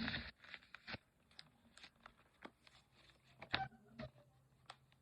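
A sheet of paper being folded and creased by hand: faint, scattered crinkles and taps, the loudest a little past halfway.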